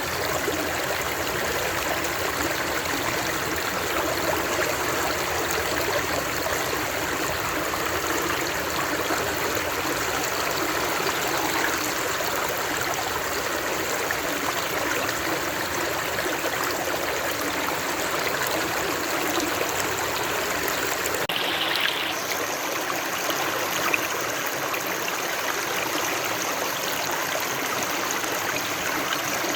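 Steady sound of running water from a flowing stream, an even rush with no pauses; its texture shifts slightly about two-thirds of the way through.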